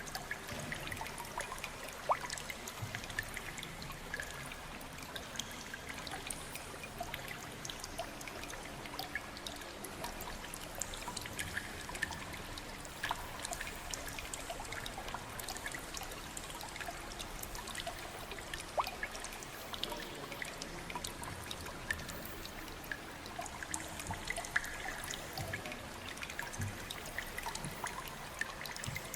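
Water trickling and dripping steadily, with many small scattered drips.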